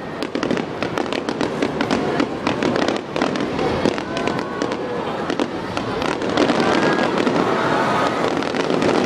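Fireworks finale barrage: many aerial shells bursting in quick succession, a dense, continuous run of overlapping bangs with no pause.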